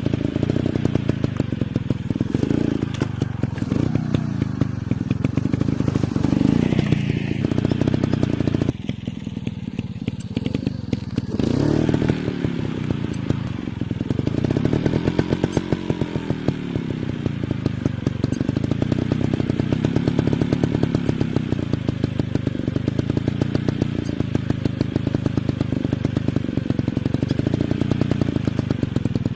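Motocross dirt bike engine running close by, revving up and down several times. It drops back about nine seconds in, then revs up again.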